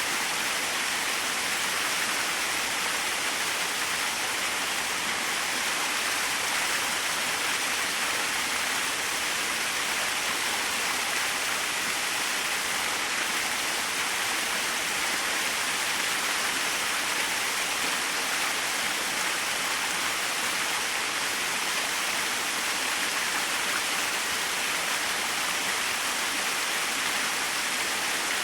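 Small waterfall splashing steadily, an even hiss of falling water with little low rumble and no change in level.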